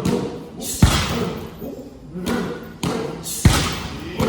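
Muay Thai strikes landing on striking pads: five or six sharp, heavy thuds at irregular intervals, the loudest about a second in and about three and a half seconds in.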